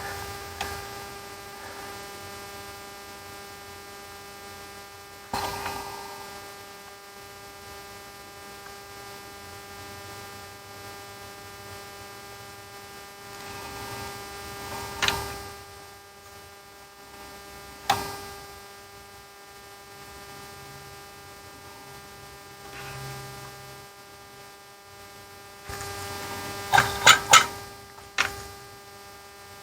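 A steady electrical hum made of several fixed tones, with a few sharp clicks about 5, 15 and 18 seconds in and a quick run of them near the end.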